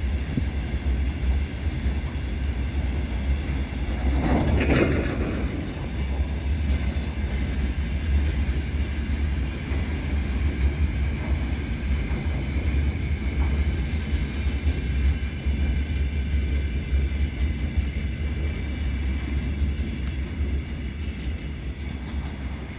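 Loaded iron ore pellet wagons of a heavy freight train rolling past, a steady low rumble from the wheels on the rails. A brief, louder burst of noise comes about four and a half seconds in, and the rumble eases slightly near the end.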